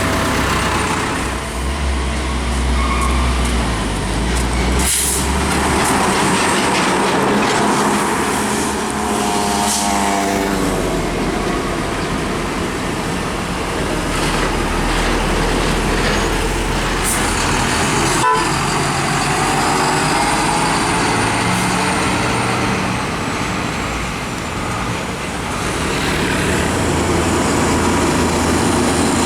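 Heavy diesel trucks driving past on a highway, their engines running steadily with a low drone; about a third of the way through, one engine's pitch rises as it revs.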